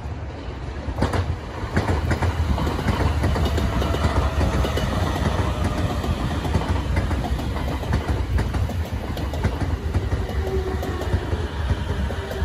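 JR 209 series 500 electric commuter train passing close by, its wheels clattering steadily over the rail joints above a low running rumble. The sound swells about a second in as the cars draw alongside.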